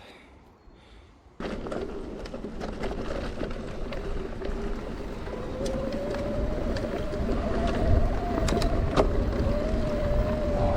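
Riding noise from a Canyon Spectral:ON CF8 electric mountain bike starts suddenly after a short quiet: wind and tyre rumble growing louder. From about five seconds in, the Shimano EP8 drive unit whines and rises slightly in pitch under pedalling, with a few sharp clicks and knocks from the bike over the trail.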